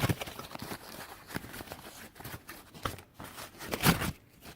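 Plastic hair-dryer comb attachments and packaging being handled: scattered clicks, taps and rustling, with a louder knock at the start and another about four seconds in.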